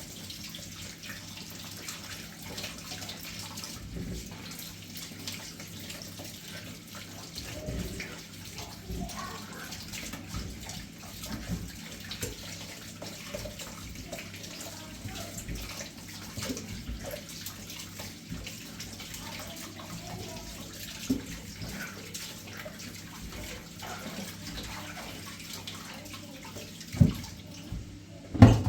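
Water running steadily, with small clicks and clatter throughout; two sharp knocks near the end.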